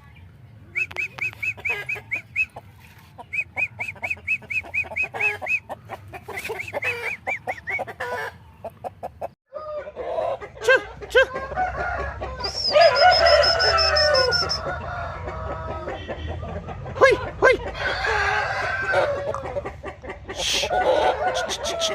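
Aseel chickens clucking and calling: first quick runs of repeated high calls, then, after a brief break, a louder jumble of calls with a rooster crowing about halfway through.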